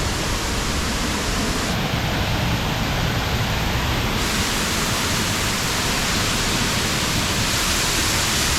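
Waterfall with a strong flow of water, a loud, steady rush of falling water.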